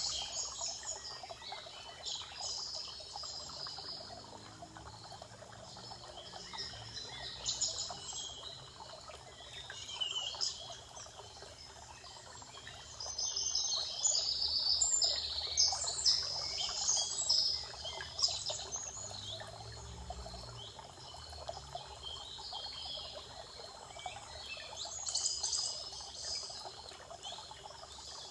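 Forest birds singing and calling in repeated bursts of high chirping song, busiest in the middle and again near the end, over a steady background hiss.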